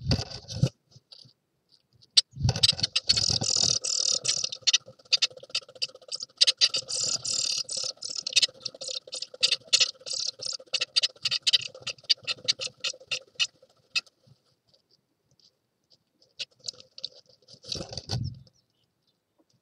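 Blue tit parents moving about inside a wooden nest box while feeding newly hatched chicks: a dense run of rapid scratching and rustling ticks in the dry nest material. Low thuds come as a bird lands about two seconds in, and again with a flutter of wings as one leaves near the end.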